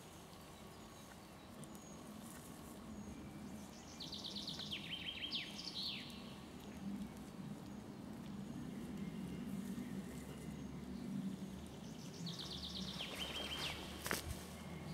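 A songbird sings a short phrase of quick repeated notes stepping down in pitch, twice: about four seconds in and again near the end, over a low steady background rumble. A single sharp click comes just after the second phrase.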